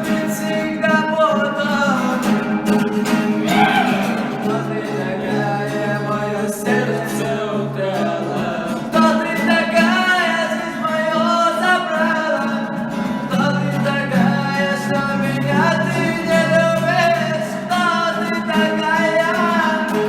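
Music: a song, sung over instrumental accompaniment.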